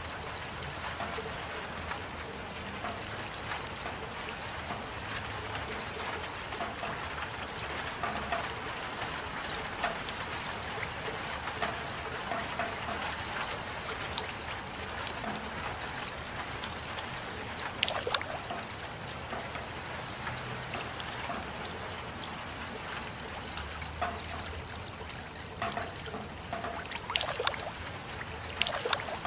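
Steady rain falling, with scattered sharper drops standing out now and then, a few louder ones near the end.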